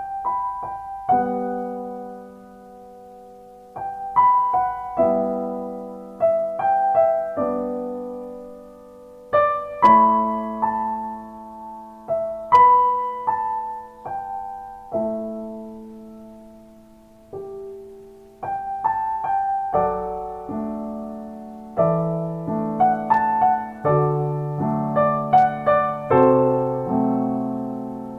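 Soft, slow solo piano music: gentle melody and chords, each note struck and left to fade.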